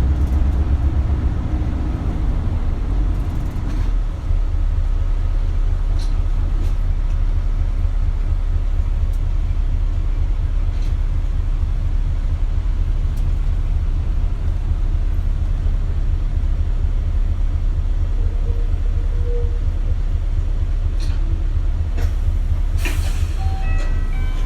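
Interior running sound of an Isuzu Erga (KL-LV280L1) city bus: the diesel engine and drivetrain run with a steady low rumble. Near the end there is a short hiss of compressed air.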